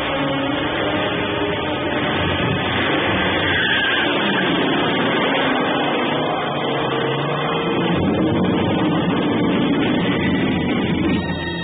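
Two car engines revving and accelerating together, a dense, loud engine noise whose pitch rises and falls.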